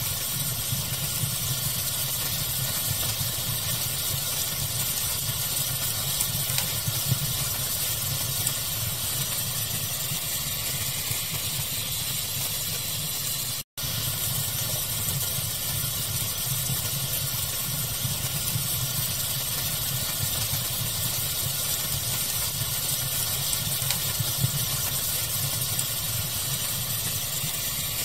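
Steady pink-noise hiss blended with a wood fire's occasional faint crackling pops. The sound drops out for an instant about halfway through.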